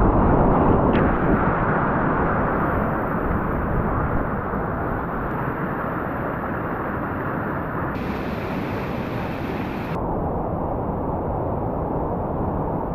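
Rushing whitewater of a river rapid: a steady, loud wash of noise, with a brighter hiss for about two seconds near the end.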